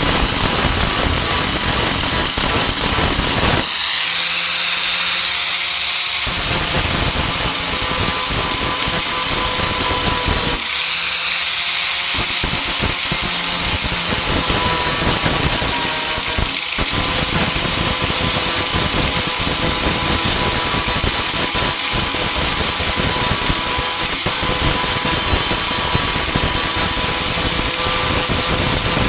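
Warrior 4-1/2 in. angle grinder with a Type 27 grinding disc running against steel, dressing down the welds on a tailgate patch, with a steady motor whine under the grinding noise. Twice, about four and eleven seconds in, the grinding thins out for a couple of seconds.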